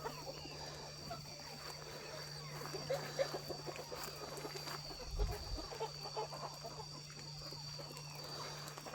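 Chickens clucking and chirping softly in many small, scattered calls, over a steady faint drone, with one low thump about five seconds in.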